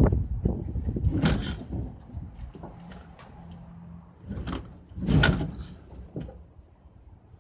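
A series of separate bumps and scrapes from a refrigerator being shoved and shifted by hand. The loudest come about a second in and about five seconds in.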